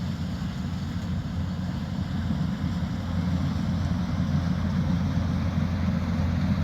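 Combine harvester's diesel engine and threshing machinery running steadily under load, growing a little louder about halfway through.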